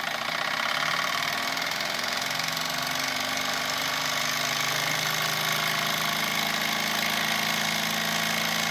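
Wilesco D101 toy steam engine's small double-acting cylinder running fast and steady, a rapid even chuffing. It picks up during the first second and then runs on evenly, its exhaust piped into a chuff pot.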